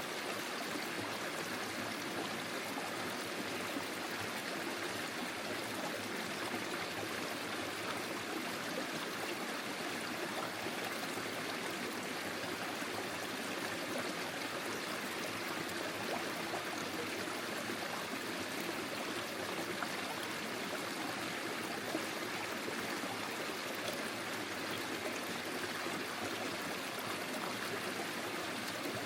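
Forest stream flowing steadily over stones, an even rushing and babbling of water.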